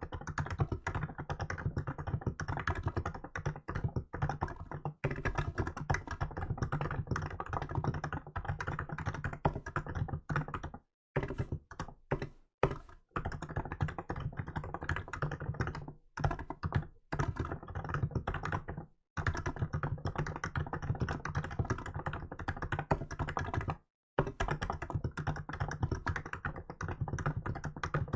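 Steady, fast typing on a Hansung GK868B electrostatic capacitive (contactless) keyboard with milk keycaps: a dense run of keystrokes, broken by a few brief pauses in the middle and later part.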